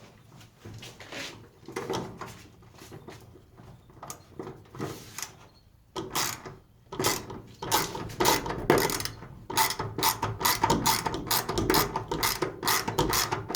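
Ratchet wrench with a Phillips bit clicking as a new screw is driven into a garage door fitting: scattered clicks and handling noise at first, then from about halfway through a quick, even run of ratchet clicks as the screw is tightened.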